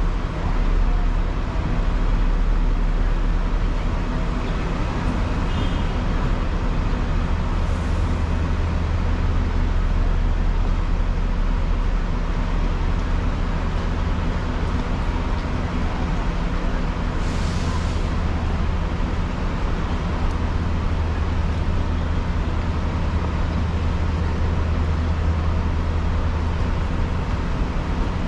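Hong Kong double-decker tram running, with a steady low hum and rumble mixed with road traffic noise. A short hiss of air comes twice, about eight seconds in and again a little past halfway.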